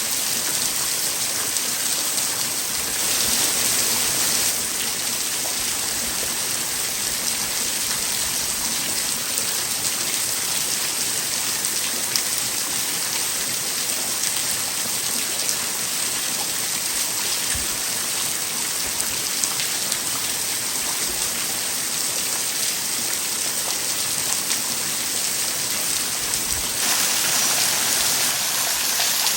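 Steady hiss of falling water. It gets a little louder and brighter for a second or two near the start and again near the end.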